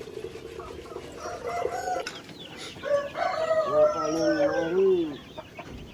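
A rooster crowing once, a long call of about two seconds that rises and then falls, past the middle. A low steady hum runs under the first two seconds.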